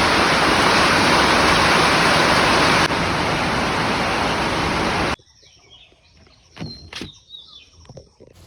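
Heavy rain, a loud steady hiss, that cuts off abruptly about five seconds in. Quiet outdoor ambience follows, with a few soft knocks and a short high chirp.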